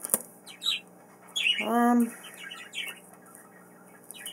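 Pet birds chirping and squawking in short calls, with one longer, louder squawk about two seconds in. A sharp click near the start.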